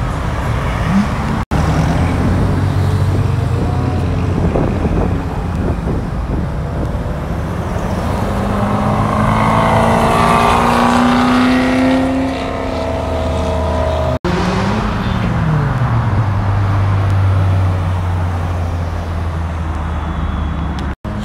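Car engines revving and accelerating as cars pull out, one after another, in short pieces that break off abruptly. The loudest is a hard rev near the middle whose pitch climbs for a few seconds, then drops; later a lower, steady engine note.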